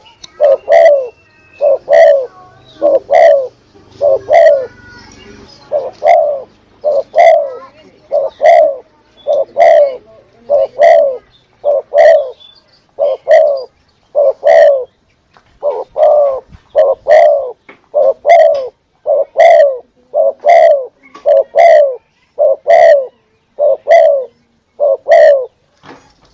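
Spotted dove cooing: short coo notes repeated over and over in a steady run, about one a second, some in close pairs.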